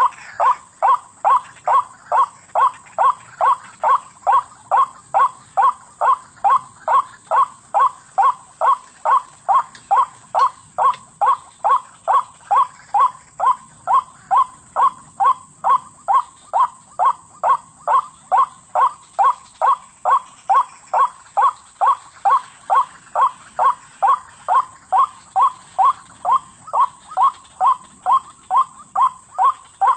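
White-breasted waterhen calling, one short note repeated evenly about twice a second without a break.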